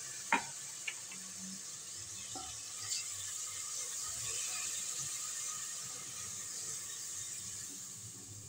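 Onion-and-spice masala sizzling steadily in hot ghee just after a splash of water has gone into the pot, easing a little near the end. A few sharp clicks come in the first three seconds.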